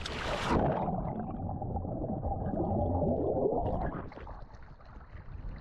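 Muffled underwater sloshing and gurgling of seawater heard through a submerged microphone, dull with the high sounds cut away. About four seconds in it comes back above the surface to lighter splashing and open-air noise.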